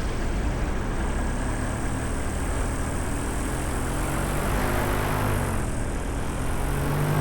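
Paramotor engine and propeller running steadily in flight, mixed with wind rush. The engine note rises a little around the middle and again near the end.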